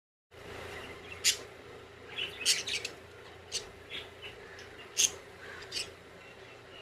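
Pet lovebirds chirping: short, sharp, high chirps at irregular intervals, loudest about a second in and about five seconds in, over a steady low hum.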